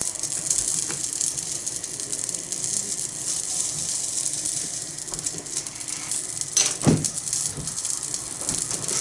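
Okonomiyaki batter sizzling on a small thick iron griddle, a steady hiss, with one sharp knock about seven seconds in.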